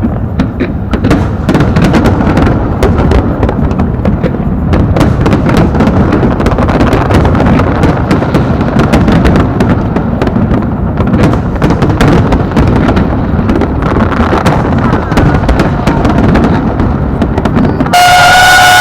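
Fireworks bursting in quick succession: a continuous low rumble of booms packed with many sharp cracks. About a second before the end, a loud held tone with a clear pitch cuts in suddenly over it.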